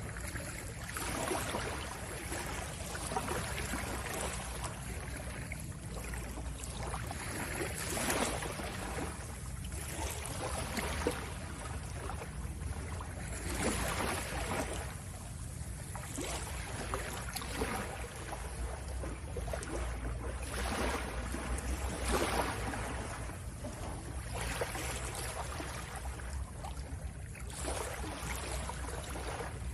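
Soft sea sounds: water washing and lapping in uneven surges every second or two.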